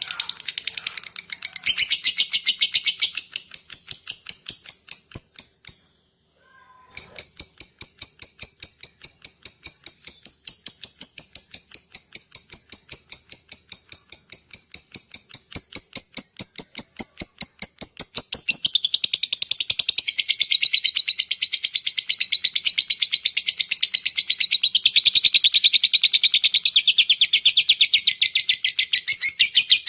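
Lovebird calling in a fast, even series of high ticking notes (the 'ngetik' call), with a brief silent break about six seconds in. About 18 seconds in it changes to a long, continuous chattering trill (the long 'ngekek'), the call used to lure other lovebirds.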